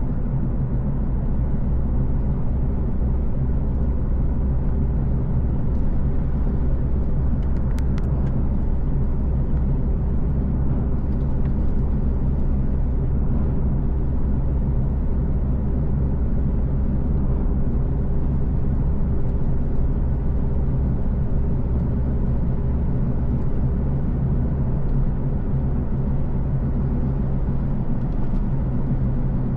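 Car driving steadily, a low, even rumble of engine and tyres on the road, with a single brief click about eight seconds in.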